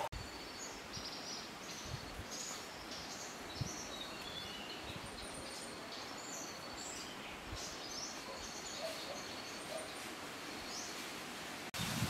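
Outdoor ambience: a steady soft background hiss with small birds chirping briefly and high, scattered throughout. Near the end it switches abruptly to louder rustling.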